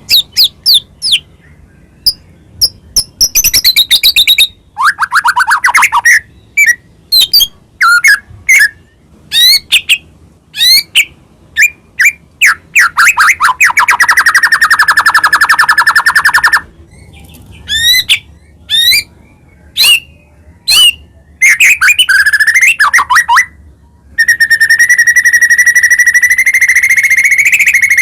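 White-rumped shama (murai batu) singing loudly: many quick, separate whistled notes and short pitch sweeps, a fast trill about 14 seconds in, and a long, steady, buzzy trill over the last four seconds.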